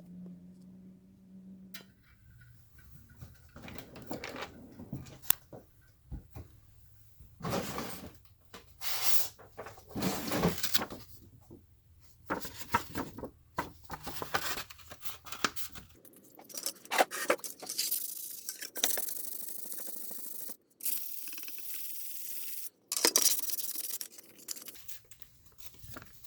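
Hand sanding of the metal parts of an antique electric fan: sandpaper rubbing and scraping in irregular strokes, some short and some drawn out over a second or more.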